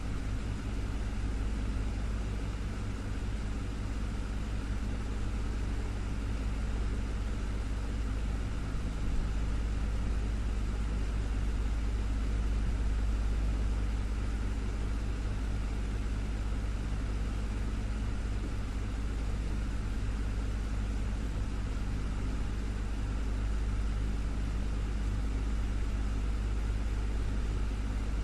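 Desktop fan running steadily, a continuous low hum under an even whir of air.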